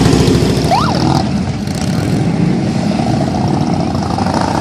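Harley-Davidson police motorcycles' V-twin engines running at low speed, loud and steady, easing slightly about a second and a half in. A short chirp rising and falling in pitch about a second in.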